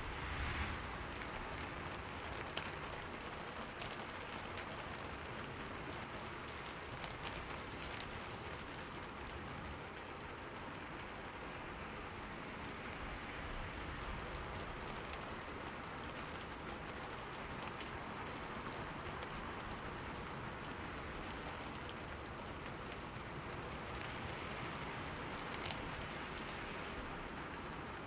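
Steady rain falling on forest leaves, a constant hiss with scattered sharper drop ticks.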